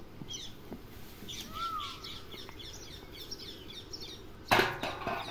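Small birds chirping over and over, with one clearer arched call about a second and a half in. A brief, loud noisy burst comes about four and a half seconds in.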